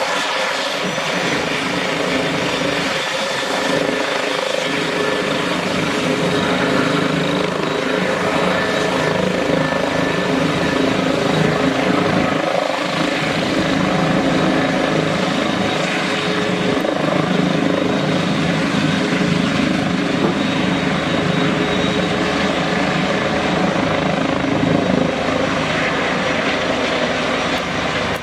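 Airbus H160 helicopter running steadily, engine whine over rotor noise, growing a little louder after the first few seconds.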